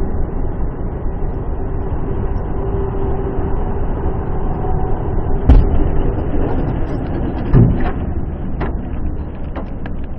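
Steady road and engine rumble of a moving car as heard by a dashcam, interrupted by two loud thumps about five and a half and seven and a half seconds in, followed by a few lighter knocks.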